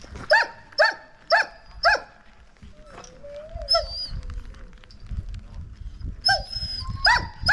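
Alaskan husky sled dogs barking: four sharp barks in quick succession, then a drawn-out whine, then more barks near the end.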